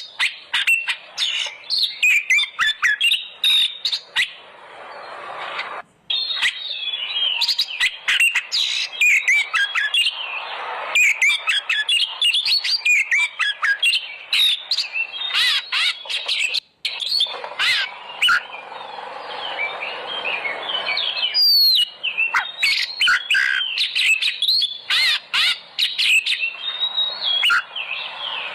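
Oriental magpie-robin singing loudly in full song: a fast, unbroken string of varied whistled, chirping and harsh notes. The song drops out briefly about six seconds in and again about seventeen seconds in.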